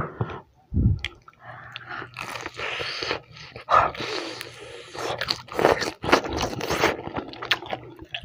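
Close-up biting and chewing of battered fried chicken, the coating crunching in irregular crackles with sharp clicks.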